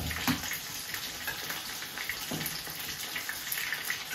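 Chicken pieces frying in oil in a pan: a steady sizzle with light crackling.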